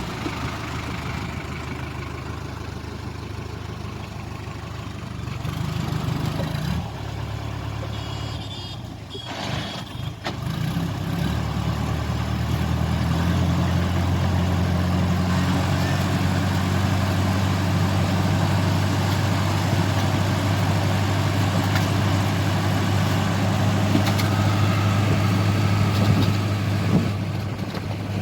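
Diesel tractor engine running steadily. Its pitch shifts a few times in the first ten seconds, then it settles louder and lower from about thirteen seconds on.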